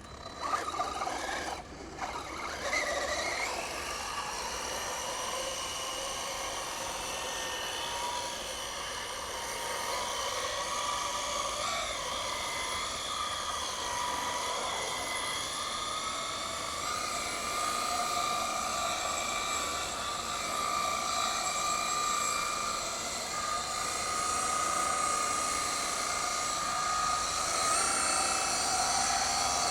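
Custom RC burnout truck running under power: a steady high whine from its motor and drivetrain that slowly climbs in pitch, with uneven surges in the first few seconds.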